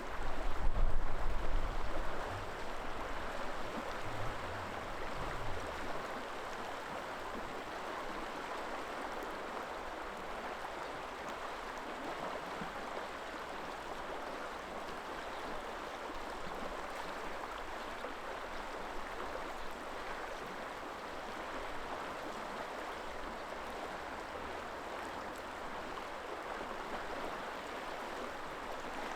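River water flowing with a steady rushing sound. Wind buffets the microphone in the first couple of seconds, with weaker gusts until about six seconds in.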